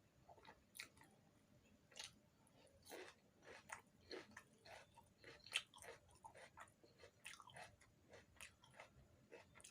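A person chewing puri with dum aloo: faint, irregular wet mouth clicks and smacks, with one sharper smack a little past the middle.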